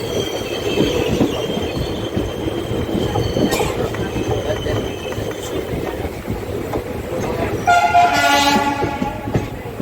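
A moving train runs along the track with a steady rumble. About eight seconds in, a locomotive horn sounds once for about a second and a half.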